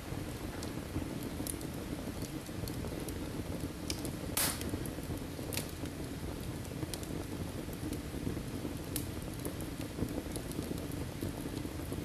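Firewood burning in a fireplace: a steady low rush of flame with scattered crackles, and one louder pop about four and a half seconds in.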